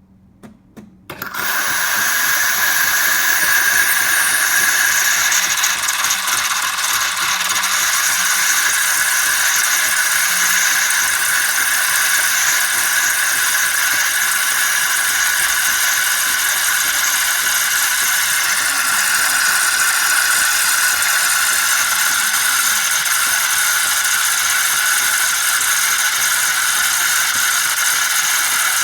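Philips 3200 Series fully automatic coffee machine running, with a few clicks and then a loud, steady mechanical whir and rattle starting about a second in and going on unchanged.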